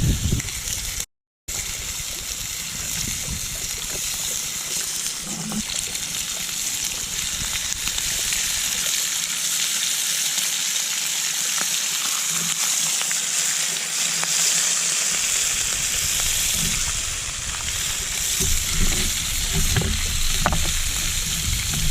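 Food sizzling in a frying pan over a campfire, a steady sizzle, cut off briefly about a second in.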